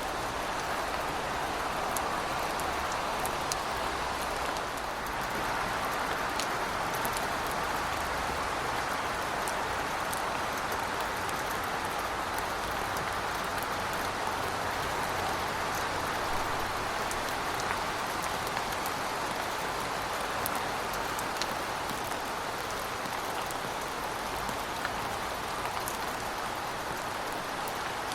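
Heavy rain falling steadily, a dense even hiss with scattered sharp drop ticks on hard surfaces.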